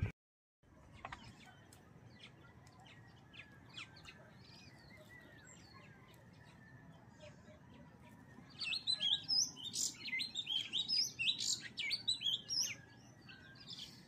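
Small birds chirping: faint, scattered high calls at first, then a busy run of quick, high chirps from about eight seconds in that thins out near the end.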